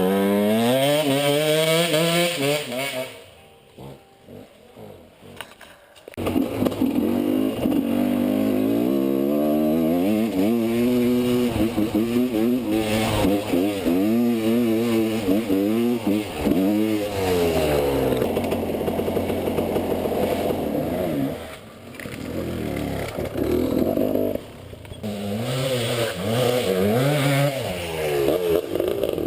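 Enduro motorcycle engine revving up and down repeatedly under changing throttle. The sound drops away for about three seconds near the start, then picks up again.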